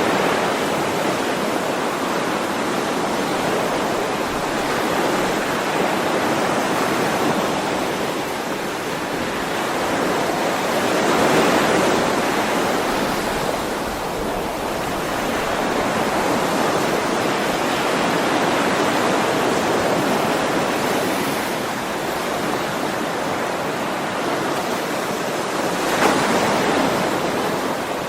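Ocean waves washing onto a shore, a continuous surf that swells and eases in slow surges, with one sharper breaking crest near the end.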